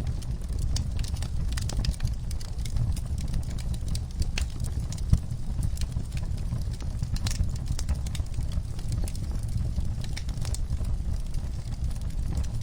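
Wood fire burning in a fireplace: a steady low rumble with frequent crackles and pops, and one louder pop about five seconds in.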